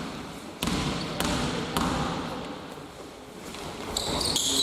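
A basketball being dribbled on the court, bouncing about twice a second, with a high steady tone near the end.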